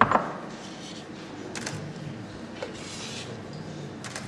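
Kitchen work sounds: a sharp knock at the start, then a few light taps and a brief rustle as ingredients are handled on the work surface.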